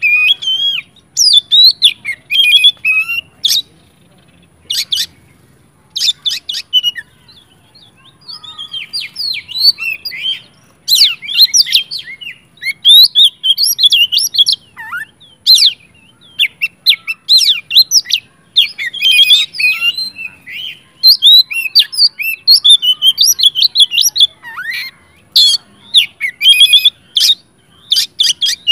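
Oriental magpie-robin (kacer) singing loudly and without let-up, in rapid phrases of varied whistles, trills and sharp chips with only short pauses between them.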